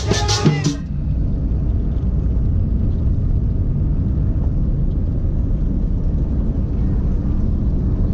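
Music with accordion and drums cuts off just under a second in, giving way to a steady low rumble of a vehicle on the move.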